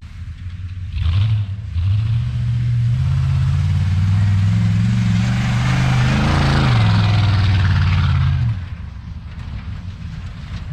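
Chevy 5.3-litre LS V8 truck engine through a 4-inch exhaust stack, getting on the throttle about a second in and pulling hard at high revs for several seconds, then easing off to a quieter drone near the end.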